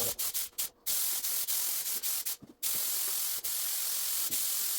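Paint spray gun hissing as it sprays. The hiss stops briefly twice, just before a second in and again about halfway, as the trigger is let off.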